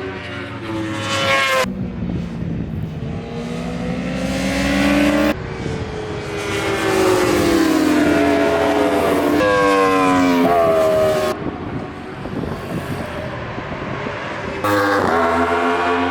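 Racing superbike engines revving hard and passing at speed, their pitch climbing and dropping through gear changes, changing abruptly several times.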